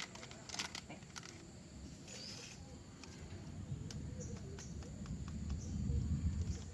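Faint rural ambience with a steady high insect drone, scattered small clicks, and a low rumble that swells near the end.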